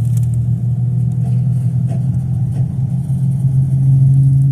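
Car engine and road noise as a steady low drone, rising slightly in pitch over the last couple of seconds.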